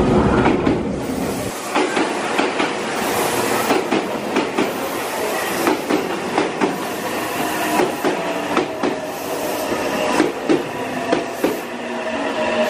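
Meitetsu 2200 series electric train running past along the platform, its wheels clacking in irregular beats over the rail joints, with a steady whine under the rumble.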